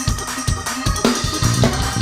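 Gospel praise music with a steady drum beat, a thump about every half second, and a held low bass note coming in near the end.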